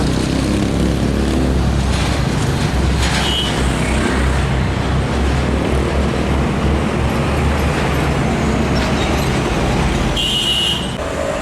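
Heavy trucks passing in traffic, with a steady deep engine rumble and tyre and road noise. A short high-pitched squeal comes about three seconds in and again about ten seconds in.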